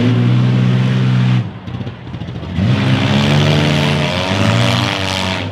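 Demolition derby car engines revving hard. One holds a steady high rev, falls away about a second and a half in, then revs up again a second later and holds with a loud, rough exhaust.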